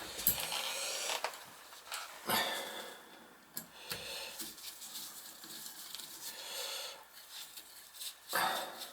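Hand tools and parts knocking, clicking and scraping as a Symmons Temptrol shower valve cartridge is worked on, with several sharper knocks among the rubbing.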